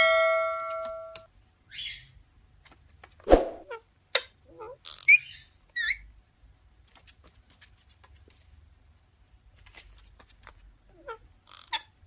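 Pet parrot making short squeaks, chirps and whistles with scattered clicks, after a ringing tone that fades out in the first second.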